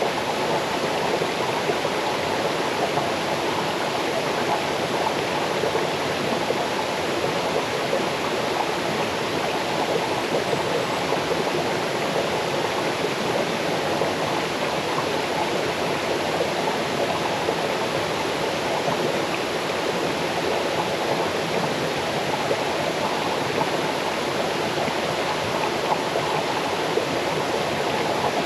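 Small forest waterfall cascading over rocks into a stream: a steady, unbroken rush and babble of water.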